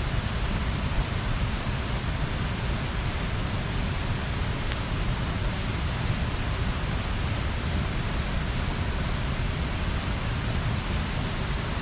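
Bonfire burning: a steady rushing noise with a low rumble and only an occasional faint crackle.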